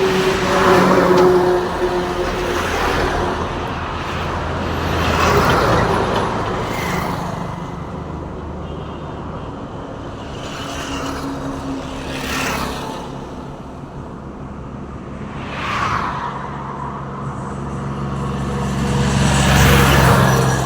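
Road traffic with trucks: about five vehicles pass one after another, each swelling and fading with tyre noise, over the steady low drone of heavy engines.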